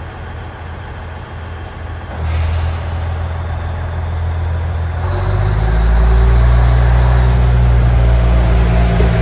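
KiHa 110 series diesel railcar's engine idling, then a sudden hiss of air about two seconds in, then the diesel engine powering up about five seconds in and running louder and steady as the train pulls away.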